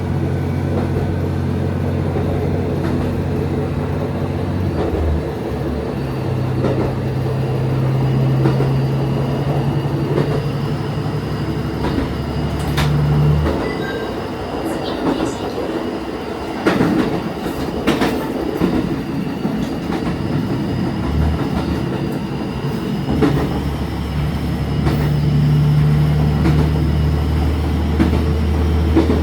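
Diesel railcar running along the track. Its engine drones steadily under power, drops away for about ten seconds in the middle while the train coasts, and picks up again near the end. A few sharp clacks of wheels over rail joints come while it coasts.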